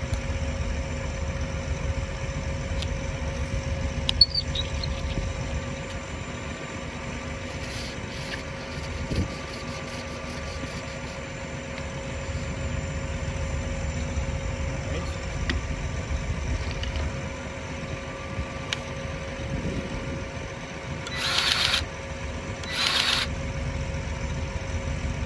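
An engine idling steadily, with a few light clicks and two short hissing bursts near the end.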